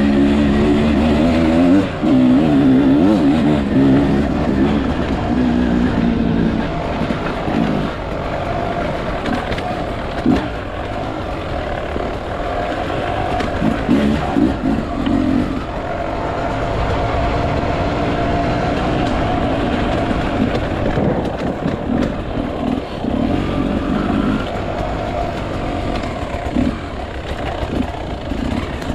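Enduro motorcycle engine revving up and down as the bike is ridden off-road, the pitch rising and falling with the throttle.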